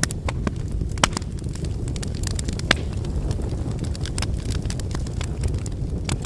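Wood bonfire burning: a steady low rumble of flame with frequent sharp crackles and pops from the burning firewood, the loudest about a second in and again just before three seconds.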